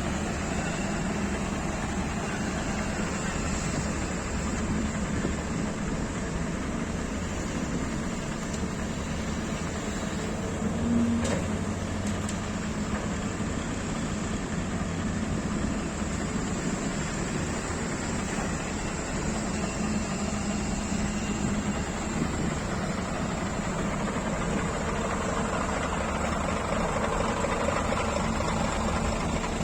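Scania G500 truck's diesel engine running steadily, a low even hum with no breaks, rising a little toward the end.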